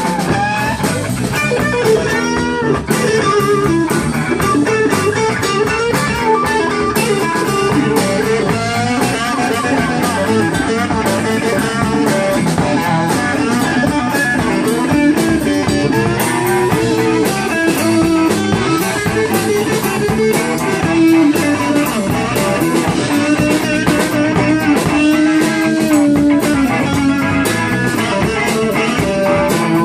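Live blues-rock band playing an instrumental break, a bending electric guitar line over bass and a steady drum beat.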